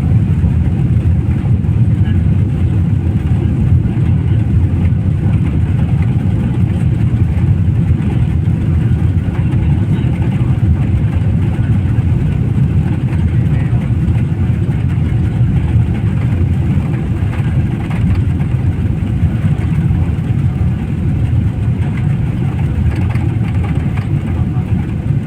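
Steady low rumble of a vehicle running, with faint voices in the background.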